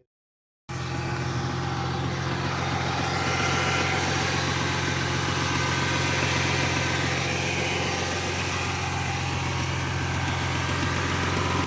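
2000 Ford Mustang's 3.8-litre V6 idling steadily, with a tick or tap in it that the owner takes for a lifter.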